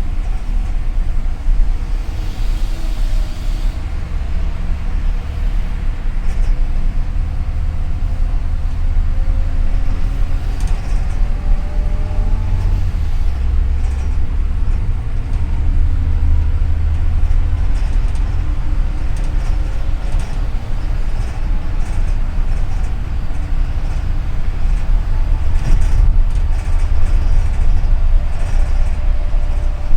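Heavy low engine and road rumble heard from inside a moving double-decker city bus, with faint whining tones that drift up and down in pitch as it drives.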